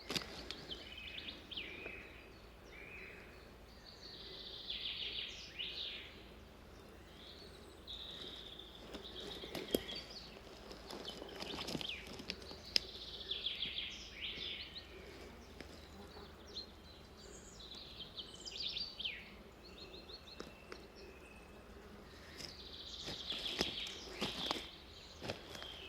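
Forest songbirds singing, short chirping and warbling phrases coming every few seconds over quiet woodland background, with a couple of sharp clicks about halfway through.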